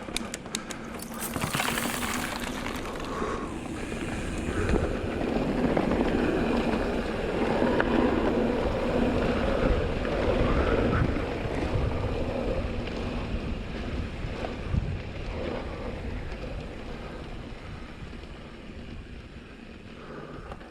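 Wind buffeting an action camera's microphone over the rolling noise of mountain bike tyres on a dirt trail at speed, with a few sharp rattling clicks about a second in. The rush grows louder through the middle and eases off toward the end.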